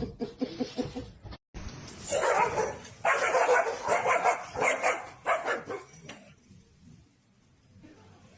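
A dog barking, a run of loud barks over about four seconds that then die away.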